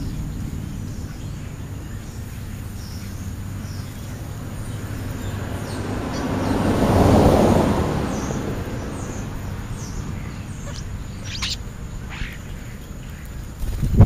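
Scattered short, high bird chirps over a steady outdoor background. About halfway through, a wash of noise swells and fades like a vehicle passing. A sharp click comes near the end.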